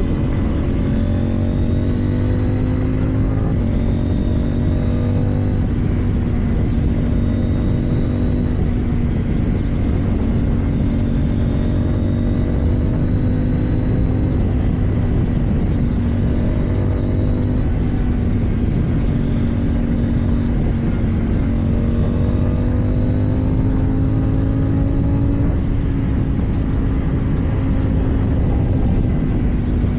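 KTM Duke 790's 799 cc parallel-twin engine, with an Akrapovič exhaust, pulling hard while riding, its pitch climbing and dropping back several times as it works through the gears, over steady wind rush.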